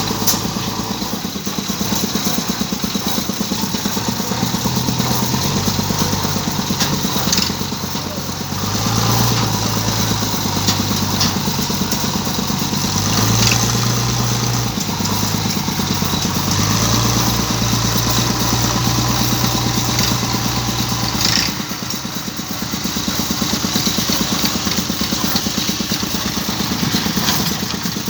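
Tractor engine running steadily, its note stepping up and down a few times and settling lower after about twenty seconds.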